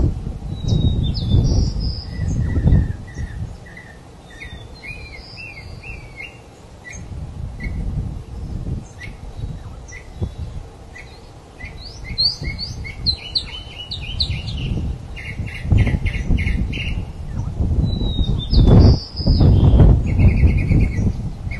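Small birds chirping and trilling in quick, varied calls throughout, over an irregular low rumble that swells and fades and is loudest near the end.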